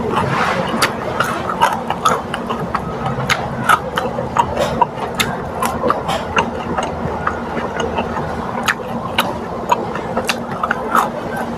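Close-up chewing and crunching of food, many irregular crisp clicks, over a steady low hum.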